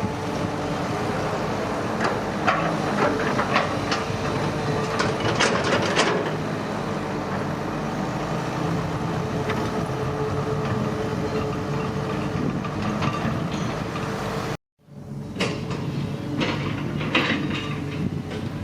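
Diesel engine of a hydraulic excavator running steadily under work, with bursts of sharp metallic clanks. The sound drops out abruptly for a moment about three-quarters of the way through, then the engine and clanking resume.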